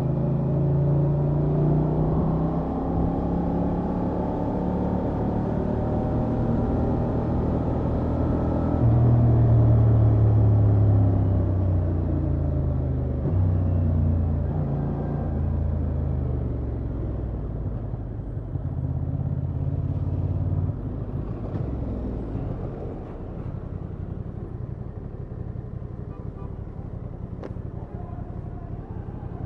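Honda XL750 Transalp's parallel-twin engine through its stock exhaust, heard from the rider's seat while riding. The engine note shifts up and down in steps with throttle and gear changes, is loudest about a third of the way in, and settles lower and quieter in the last third as the throttle eases.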